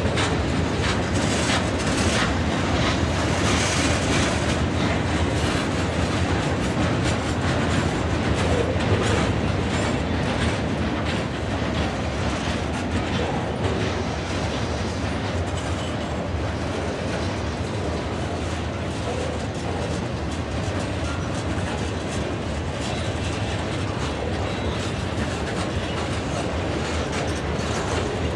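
A long freight train rolling past, its car wheels clicking steadily over the rail joints. Slightly louder in the first few seconds, then steady.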